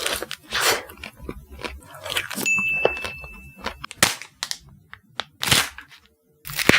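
Close-up biting and chewing of ice cream: irregular crunches and cracking bites, with a few sharp snaps near the end. A thin, steady high tone sounds for about a second in the middle.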